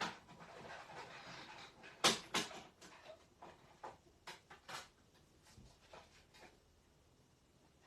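A few sharp clicks and knocks, the loudest two about two seconds in, then lighter taps that die away, after a stretch of rustling.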